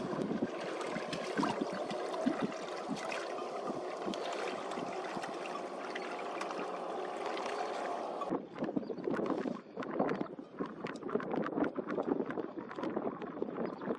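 Water splashing and sloshing. About eight seconds in the sound changes abruptly to more irregular, separate splashes and knocks.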